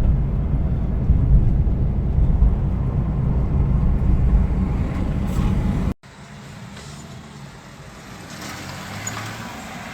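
Loud, steady low rumble of road vehicle noise with wind buffeting the microphone, which cuts off abruptly about six seconds in and gives way to quieter, steady street traffic noise.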